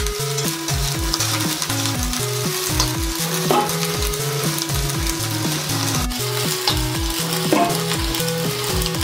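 Broccoli sizzling as it is stir-fried in a hot wok, with a spatula tossing it, over background music with a steady bass beat.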